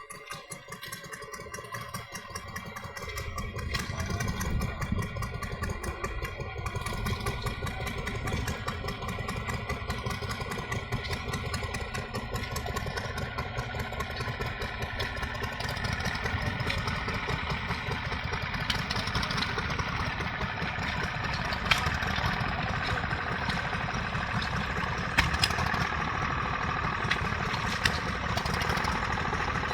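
Vintage stationary engine running steadily. It grows louder over the first few seconds, and a few sharp clicks come through in the second half.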